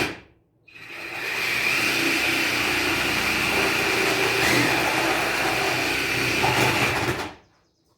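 A handheld power cutting tool runs with a steady high whine over a grainy cutting noise, cutting through a part for about six seconds, then stops suddenly. A brief burst of the tool comes just at the start.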